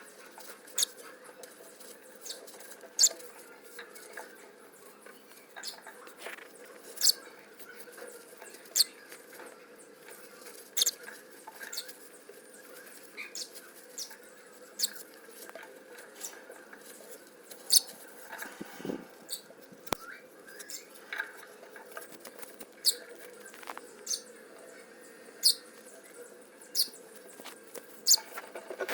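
Cockatiel making short, sharp high-pitched ticks at irregular intervals, about one every second or two, over a faint steady hum, with a brief lower rustle a little past the middle.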